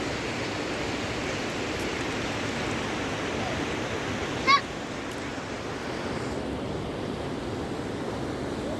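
Fast-flowing mountain river rushing steadily, with a single brief high-pitched call about halfway through.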